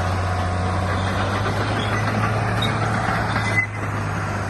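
Heavy diesel earthmoving machinery running steadily under load, with one short knock about three and a half seconds in.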